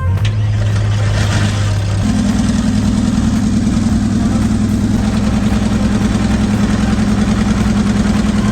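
Pulling tractor's engine running steadily, stepping up to a higher, steady engine speed about two seconds in.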